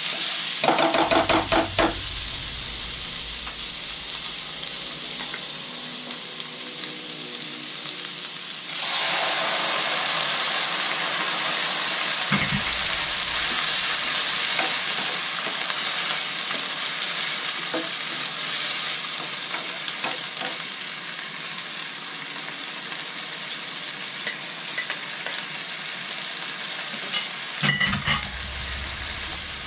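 Vegetables sizzling steadily as they stir-fry in a wok, the sizzle growing louder about a third of the way in. A spatula scrapes and tosses them in quick strokes about a second in, and there is a short clatter of stirring near the end.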